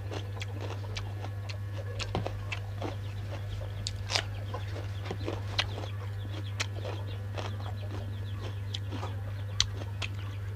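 Close-up eating sounds: irregular short clicks and crunches of chewing, over a steady low electrical hum.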